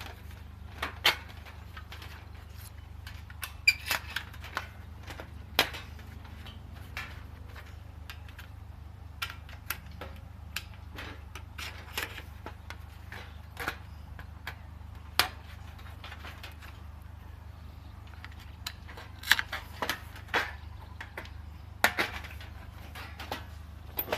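Irregular sharp snaps and clicks from twigs and kindling in a small metal folding wood stove, about one every second or two, with a few louder ones close together near the end, over a steady low hum.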